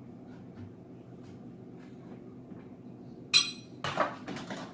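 Dishes being handled and loaded into a dishwasher rack: a ringing clink a little over three seconds in, then a few quick knocks of crockery.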